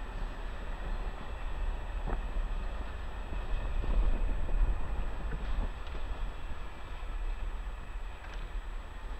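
An electric multiple unit rumbling out past the platform, with wind buffeting the microphone, strongest about halfway through, and a few faint clanks from the track.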